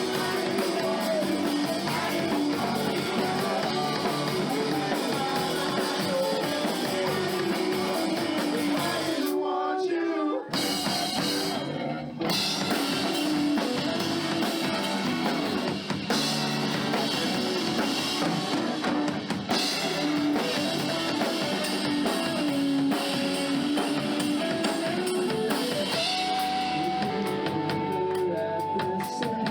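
Live rock band playing, with drum kit and guitar. The cymbals drop out briefly about ten seconds in, and near the end a guitar holds a long note.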